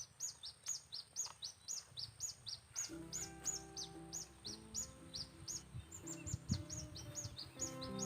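A small bird chirping rapidly and steadily, about four short, high, falling notes a second. Background music comes in about three seconds in.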